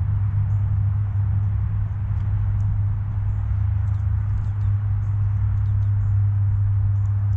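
A steady low hum, with faint, short, high bird chirps scattered through it.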